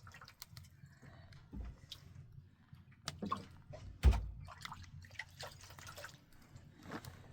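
Water dripping and splashing in irregular drops from steady rain, with small knocks and one heavy thump about four seconds in.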